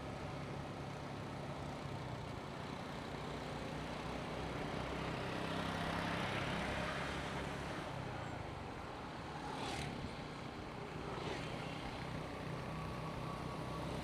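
Motorcycle engine running steadily during a road ride, with tyre and traffic noise around it. The road noise swells louder about six seconds in, and two brief sharp sounds come near ten and eleven seconds.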